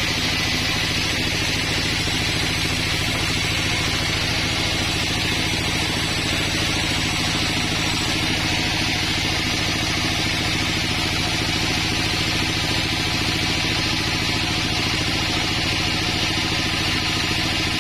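Sawmill engine running steadily, with a steady hiss over it and no change in speed.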